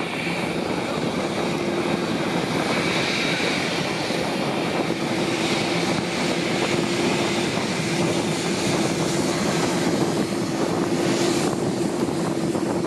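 Jet airliner engines running, a steady noise with a held high whine over it.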